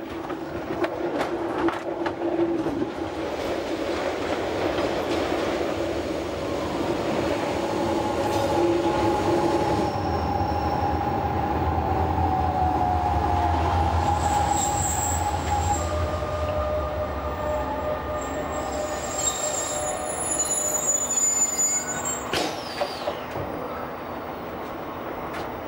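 Metre-gauge electric train running into a station over points, heard from on board: rumble and humming tones of the running gear, with a thin high wheel squeal on the curved track in the middle stretch. A single knock comes a few seconds before the end as the train comes to a stand.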